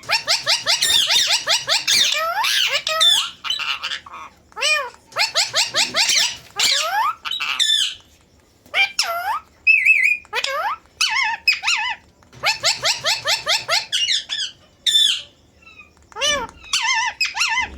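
Indian ringneck parrot calling in rapid runs of short, shrill chirps, several bursts of a second or two with brief pauses between them.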